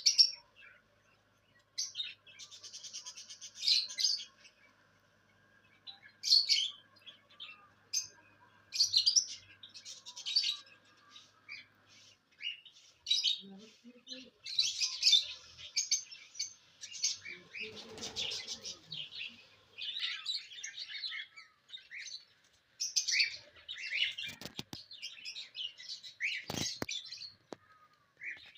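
Small pet birds chirping and chattering, many short high calls in quick bouts with brief pauses between them. A few sharp clicks come in near the end.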